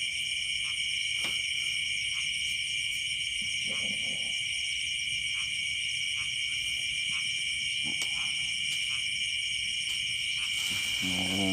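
Night insect chorus, crickets trilling steadily and continuously in several overlapping high pitched bands.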